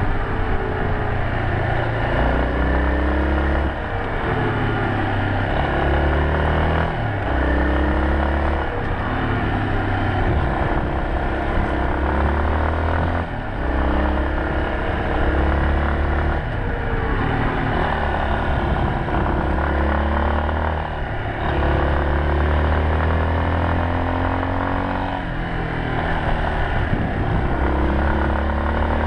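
Yamaha Serow 250's single-cylinder four-stroke engine running under changing throttle, its pitch climbing and dropping again and again through the gears, over a steady rush of noise.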